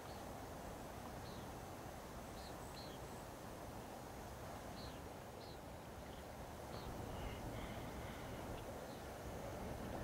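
Birds calling with short, high chirps, a dozen or so scattered through, over a soft steady wash of outdoor ambience from calm water at dusk.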